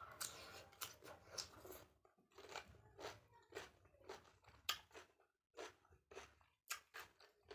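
A person chewing food with crunchy mouth sounds, irregular bites and chews about twice a second.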